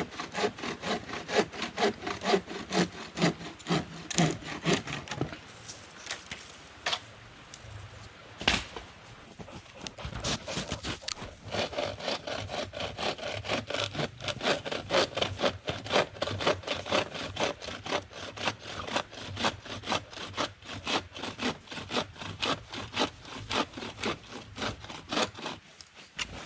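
Hand saw cutting firewood in quick, even back-and-forth strokes. There is a pause of a few seconds with a single knock, then the sawing starts again and runs on.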